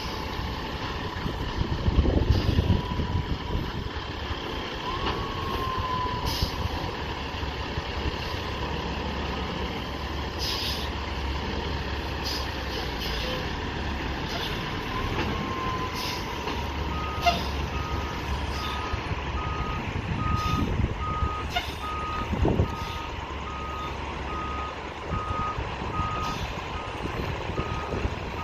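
Heavy diesel equipment running. A little past halfway, a backup alarm starts beeping steadily at a little under two beeps a second.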